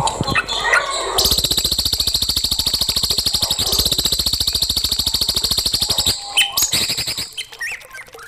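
Songbird calling: a few chirps, then a fast, even rattling trill for about five seconds, ending in more short chirps.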